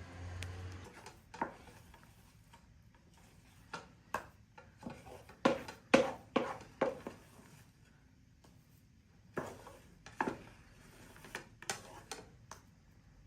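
Irregular sharp clicks and knocks of small hard objects, in two clusters, the loudest about six seconds in. A low hum stops in the first second.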